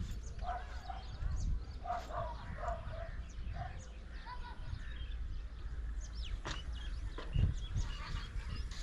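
Short bird calls repeated over the first few seconds, over a low steady rumble, with a couple of sharp knocks later on.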